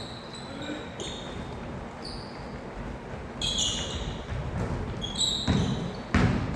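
Basketball play in a gym: a ball bouncing on the court, with short high squeaks of shoes, and two heavy thuds in the second half.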